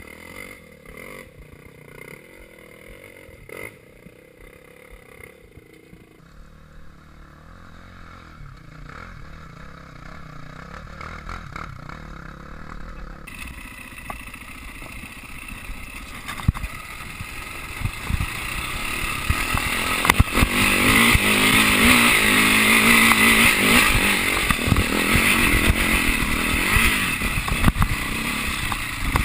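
Dirt bike engine running, quiet at first and growing much louder from about halfway through, with knocks and clatter mixed in.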